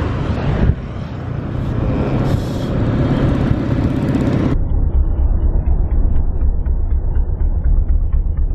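Motorbike engine and road noise while riding: a steady low rumble. About halfway through it turns dull and muffled.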